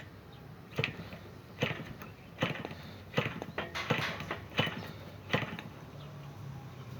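JBA 56 AR ringed model-aircraft glow engine being turned over for starting: seven sharp cracks, one roughly every three-quarters of a second, without the engine catching. A faint low hum sets in near the end.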